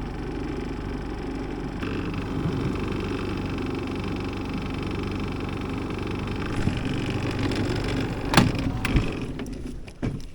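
Small outboard motor running steadily at low trolling speed, with two sharp knocks about eight seconds in; the motor cuts off near the end.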